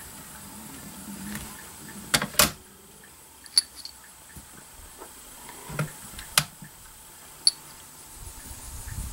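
A few sharp clicks and knocks, some with a light metallic ring: a close pair about two seconds in, then single ones spread over the next five seconds. This is objects being handled at close range. It is not gunfire.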